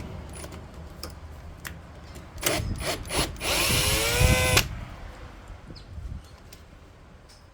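A few sharp knocks, then a power drill runs for about a second, its whine rising slightly in pitch before it stops.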